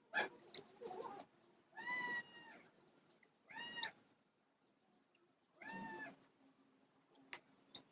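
Three short, pitched animal calls, each about half a second long and arching in pitch, with faint short chirps and rustles between them.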